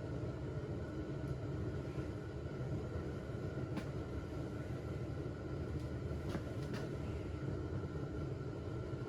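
Steady low rumble of background noise with a faint steady high tone, and a few light clicks in the middle.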